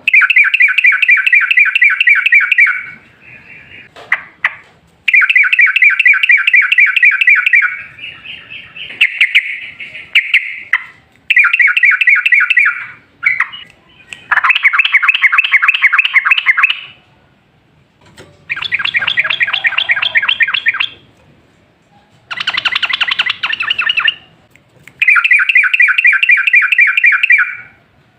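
Yellow-vented bulbul (trucukan) singing its fast, bubbling 'ropel' chatter in repeated bursts of two to three seconds each, with short pauses between them, about eight bursts in all.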